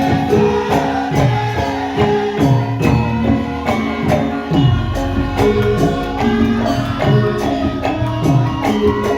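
Javanese gamelan playing lengger dance music: held metallophone tones over a steady rhythm of drum strokes and jingling percussion.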